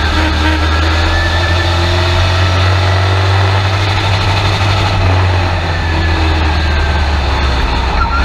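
Race truck engine running hard, heard from inside the cab through the in-car camera. It is loud and fairly steady, with only small changes in pitch.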